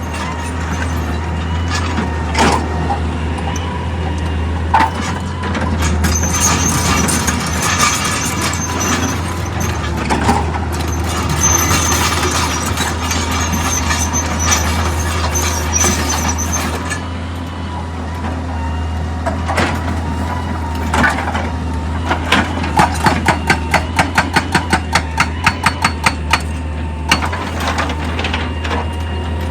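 Heavy excavator running steadily, with scattered clanks and knocks and a high squeal through the middle. Near the end comes a quick even run of sharp knocks, about three a second.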